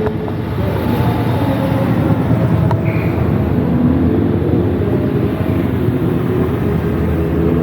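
Car engines running loudly and steadily, several pitches sounding at once, with a brief high tone about three seconds in.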